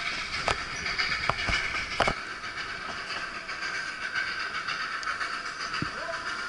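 Train rolling along the rails: a steady running noise with a few sharp clicks of the wheels over rail joints, most of them in the first two seconds.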